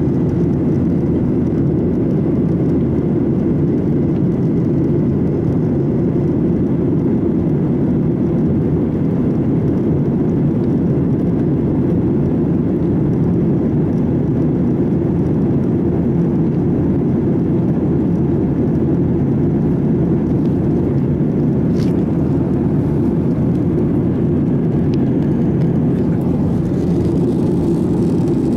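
Steady noise inside an airliner cabin: the engines and airflow make a constant low drone, with a single sharp click about three-quarters of the way through.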